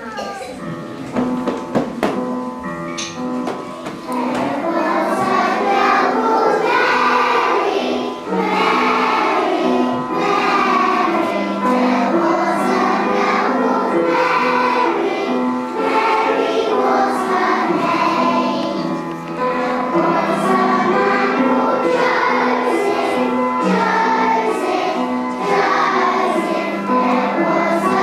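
A children's choir singing a Christmas song with instrumental accompaniment, the voices coming in about four seconds in after a short introduction.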